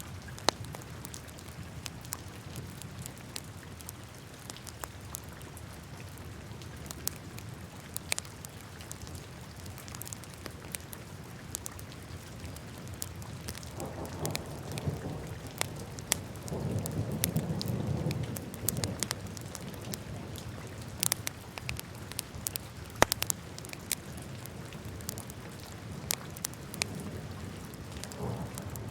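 Wood fire burning in a fireplace: a steady low rush of flame with scattered sharp crackles and pops, the rush swelling louder for a few seconds past the middle.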